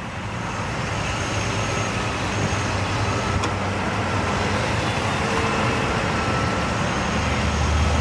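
Road traffic noise: a steady rush of passing vehicles that builds in the first couple of seconds, with a deeper low rumble near the end.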